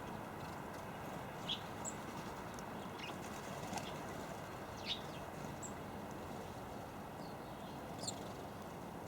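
Scattered short, high chirps from small garden birds, about seven brief notes spread across several seconds, over a steady background hiss.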